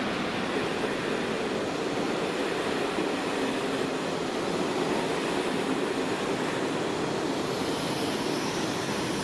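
Passenger coaches of a locomotive-hauled train rolling past at speed: a steady rumble of steel wheels on rail. A high hiss comes in near the end as the last coach goes by.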